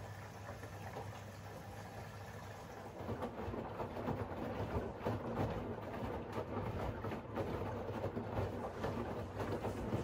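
Siemens iQ700 WG56B2090 front-loading washing machine during its main wash. A steady low hum runs at first, then about three seconds in the drum starts turning, with wet laundry and water tumbling and sloshing unevenly.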